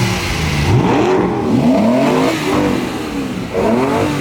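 Sports car engine revving in several quick blips, its pitch climbing and falling, with a last rev a little before the end.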